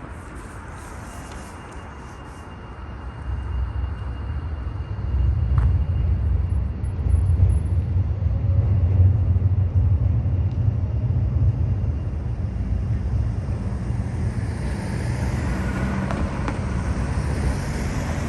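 Road traffic passing, a low rumble that builds about three seconds in and later thins to a hiss.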